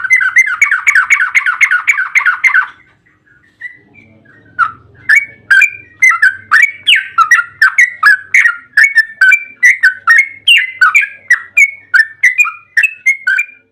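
Yellow-vented bulbul (trucukan) singing: a fast run of chattering notes for about the first two and a half seconds, then, after a short break, a long string of bubbly notes stepping up and down in pitch at about three a second.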